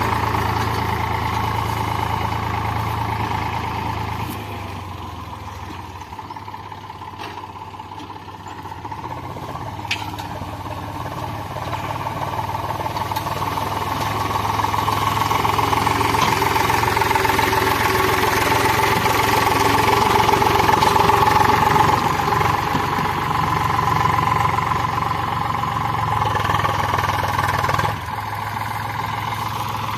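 Eicher 485 tractor's diesel engine running hard while the tractor is stuck. It eases off for a few seconds, builds back up to its loudest about two-thirds of the way through, then drops off suddenly near the end.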